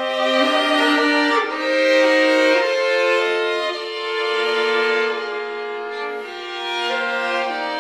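Bowed strings playing slow, sustained notes in several voices, each note held for one to two seconds before moving on, all pitched in the middle and upper range.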